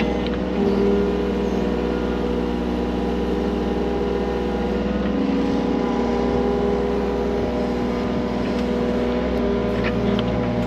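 Skid steer loader's engine running steadily, its pitch shifting a little about halfway through.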